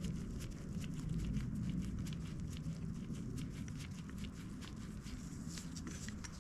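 Light clicks and taps of small metal carburetor parts and hand tools being handled as a carburetor is taken apart, several a second and irregular, over a low steady hum.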